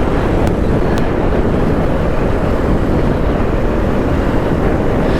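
Wind rushing over the microphone of a Yamaha YZF-R125 motorcycle on the move, with the bike's single-cylinder engine running underneath. There is a steady low roar with two faint clicks in the first second.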